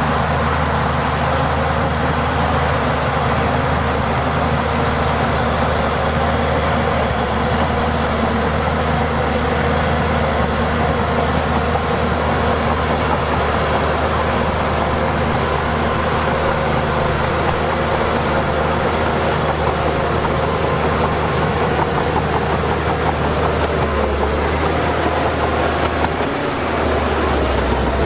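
Heavy diesel earthmoving machinery running steadily, with a continuous low engine drone. The low engine note drops briefly near the end, then returns.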